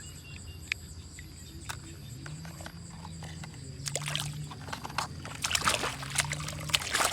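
Water splashing and sloshing as a plastic toy car is moved about in it, with scattered light clicks. The splashing starts about four seconds in and grows louder near the end.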